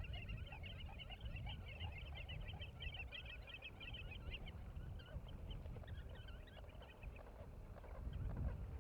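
Many birds calling at once, a dense chatter of quick high notes that thins out about halfway through, over a steady low rumble.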